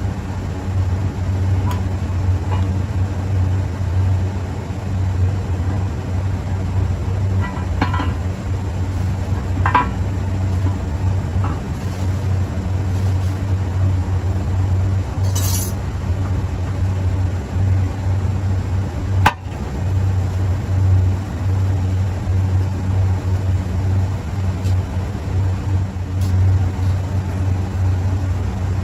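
A steady low hum throughout, with a few scattered light metallic clinks of compressor parts being handled during cleaning, one sharper click about two-thirds of the way through.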